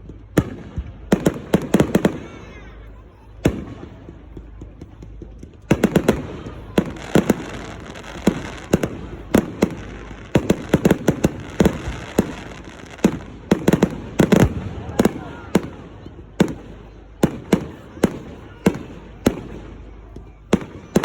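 Firework display: a long run of sharp bangs from bursting fireworks, many coming in quick clusters of several bangs.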